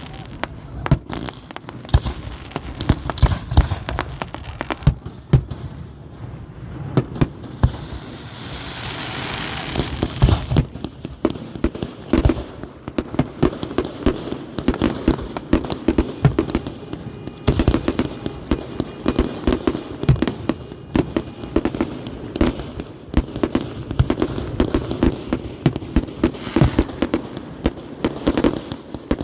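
Fireworks going off in rapid succession: many sharp cracks and booms, nearly continuous, with a stretch of hissing crackle about a third of the way in.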